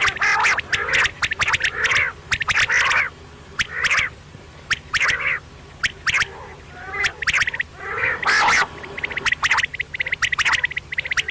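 Quail calling over and over: short harsh calls about once a second, with quick sharp ticks in between.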